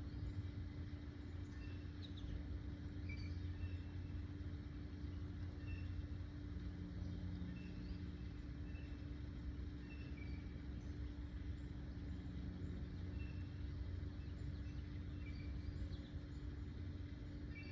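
Small birds giving short, repeated high chirps about once a second over a steady low rumble and hum.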